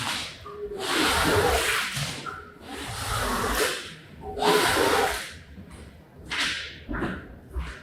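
Wet rug being worked in repeated sweeping strokes, each a swish lasting about a second, about five in a row, the last two shorter.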